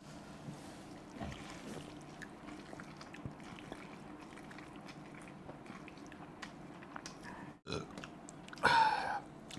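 Close-up wet chewing and mouth smacking as a man eats a mouthful of chowmein noodles with Schezwan chutney by hand, with small clicks throughout. A brief louder sound comes near the end.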